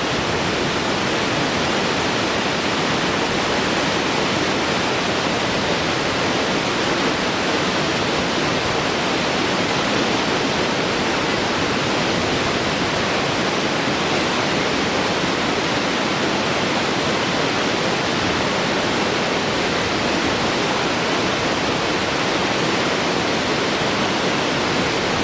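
Large waterfall flowing: a steady, even rush of falling water with no change in level.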